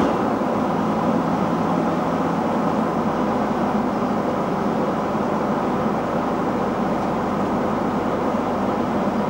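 Farm diesel engine running steadily at an even speed.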